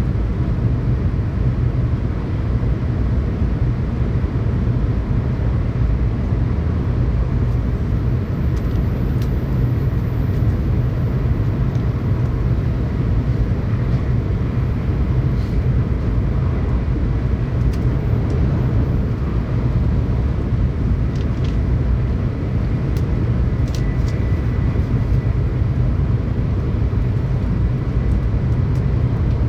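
Tokaido Shinkansen train running at speed, heard from inside the passenger car: a steady, low rumble of running noise with a few faint clicks in the second half.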